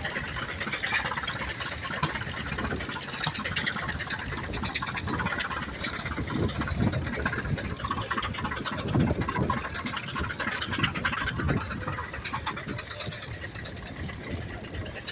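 Tractor engine running steadily under field work, with a fast even exhaust pulse.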